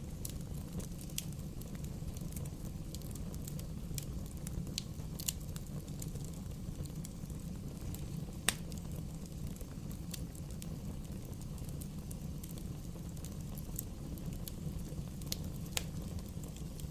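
Bonfire crackling: scattered sharp pops and snaps over a steady low rumble of the flames, with one louder pop about halfway through.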